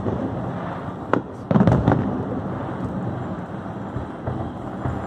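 Aerial fireworks bursting: a sharp bang about a second in and a quick cluster of bangs just after, over a continuous rumble and crackle of the show.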